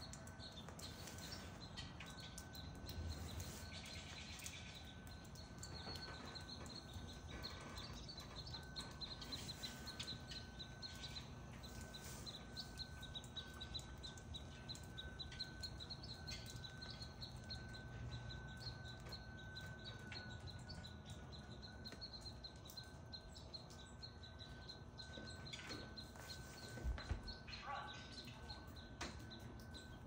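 Small birds chirping faintly and on and off, over a faint steady high whine. A couple of low bumps come near the end.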